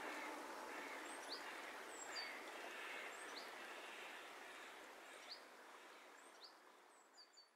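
Outdoor bush ambience with a steady background hiss and a small bird's short rising chirps repeating every one to two seconds, fading out near the end.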